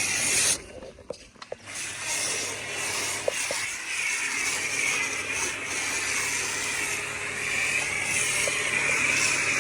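Pressure washer spraying water onto a car with a steady hiss. The spray cuts off about half a second in and starts again roughly a second later.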